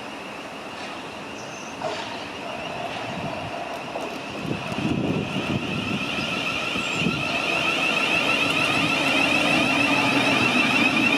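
Electric passenger train approaching, its steady high-pitched motor whine and running noise growing louder.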